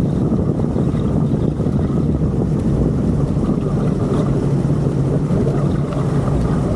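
Outboard speedboat motors running steadily under way, with a constant low drone and wind buffeting the microphone.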